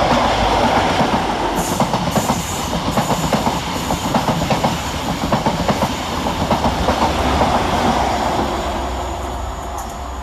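Class 43 HST power cars and their train passing through, a continuous rumble with rapid clatter of wheels over the rail joints, easing off near the end.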